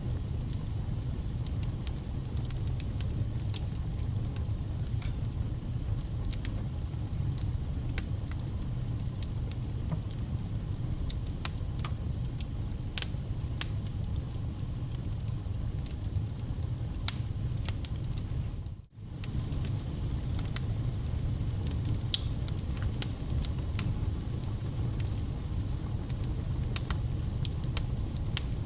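Wood fire burning, with a steady low rumble and frequent sharp crackles and pops. About two-thirds of the way through the sound cuts out for a split second, then resumes.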